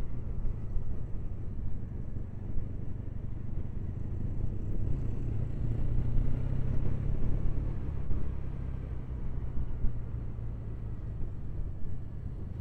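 Triumph Bonneville parallel-twin motorcycle riding at road speed: a steady engine drone under low wind rumble on the helmet microphone.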